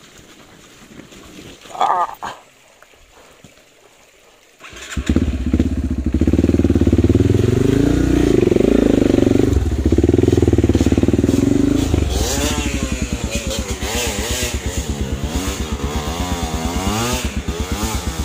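A dirt bike engine starts abruptly about five seconds in and runs with the throttle revved up and down. From about twelve seconds its pitch rises and falls in quick waves, the sound of a bike working hard up a muddy climb.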